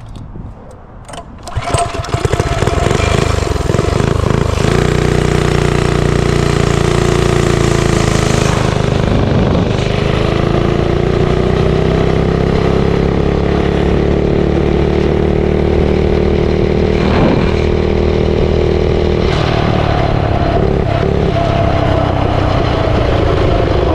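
Mini bike's small engine restarting after it cut out: a few clicks, then it catches about two seconds in and runs steadily, its pitch dipping and rising a few times with the throttle.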